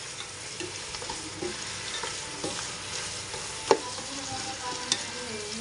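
Chicken pieces frying and sizzling in a pan with soy sauce while being stirred, a steady hiss with small scrapes and taps. A sharp knock about three and a half seconds in, and a smaller one about a second later.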